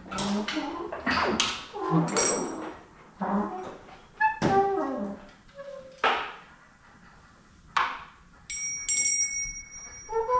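Improvised percussion: scattered strikes and knocks on assorted hand instruments, with a metal chime struck about two-thirds of the way in and left ringing with a long, steady high tone.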